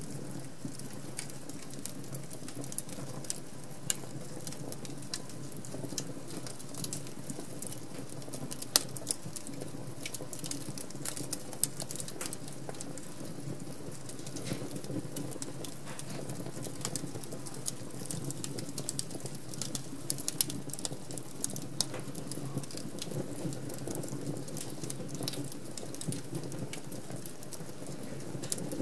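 Wood fire crackling in a fireplace: a steady low rush of flame with frequent, irregular sharp snaps and pops.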